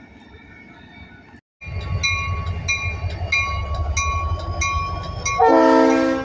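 Diesel freight locomotives running light: a deep engine rumble, with the bell ringing in even strokes, and a short horn blast near the end.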